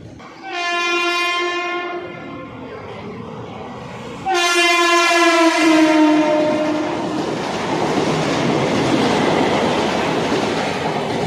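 Mumbai suburban local electric train sounding its horn twice: a short blast, then about four seconds in a longer one that drops in pitch as the train passes. The loud rumble and rail clatter of the passing train follows.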